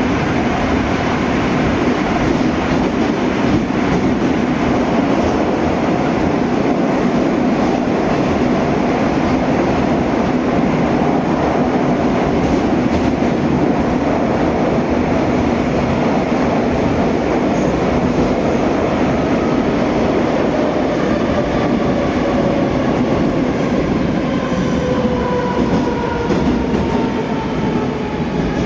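81-740/741 Rusich metro train running between stations, a steady loud rolling noise of wheels on rail with a low hum. In the last third several whining tones slowly fall in pitch as the train begins to slow.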